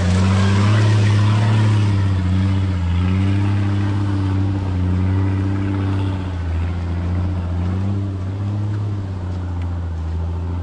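Car engine running under way, a steady low drone whose pitch rises and falls a little, easing slightly about halfway through.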